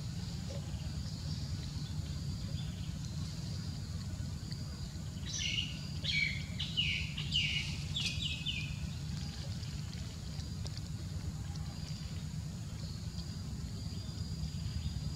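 A bird calls a quick run of about eight high, falling notes starting about five seconds in, over a steady low background rumble.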